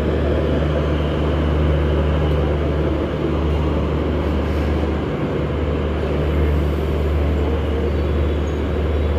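Garib Rath Express passenger coaches rolling steadily along the track, a continuous train rumble with a steady low hum underneath.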